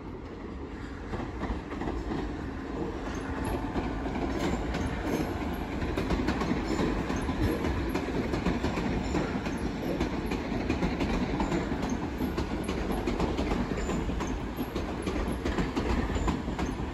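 Southeastern Class 395 Javelin electric multiple unit running into the station, a steady rumble with wheels clicking over the track, growing louder over the first few seconds.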